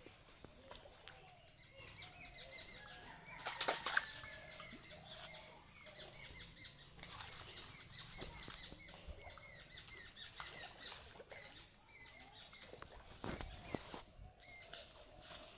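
Small birds chirping with many short repeated notes, with a couple of brief rustling knocks, one about four seconds in and one near the end.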